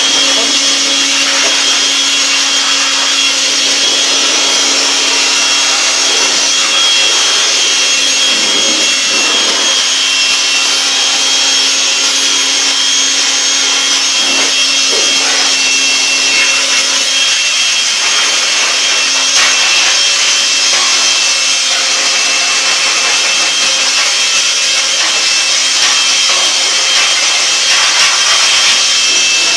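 Electric blower running steadily at full speed with a constant high whine, blowing residual water out of a gas water heater's freshly cleaned heat-exchanger coil.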